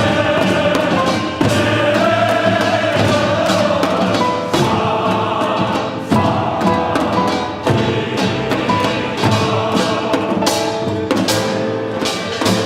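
Choir singing with orchestral accompaniment, punctuated by frequent drum strikes.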